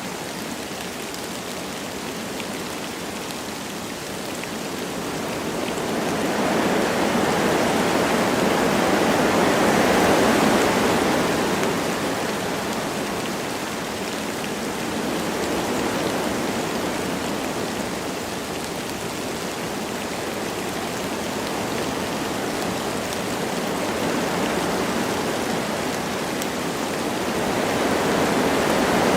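Wind rushing through forest trees with light rain falling, a steady rushing hiss that swells in gusts, strongest a few seconds in and again near the end.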